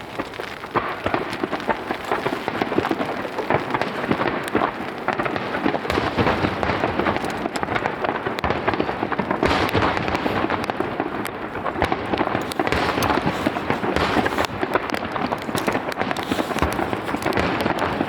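Starmine fireworks barrage: a dense, unbroken crackling and popping of shell bursts mixed with heavier booms, with no let-up.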